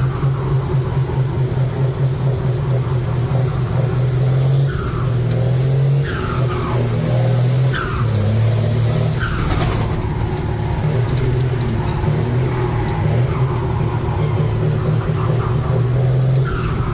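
Truck engine running under way, a loud low drone that shifts in pitch every second or two, heard from the cab.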